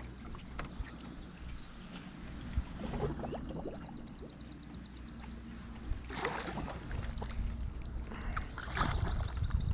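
Water splashing and gurgling around a canoe in a shallow stream, with a high, rapid trill heard twice, once in the middle and once near the end.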